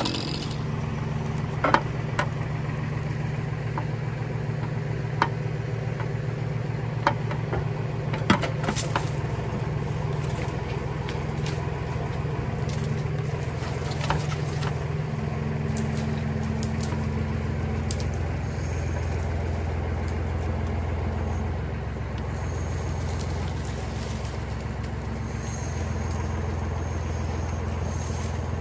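An engine running steadily at low revs, with a few sharp knocks or clacks in the first nine seconds.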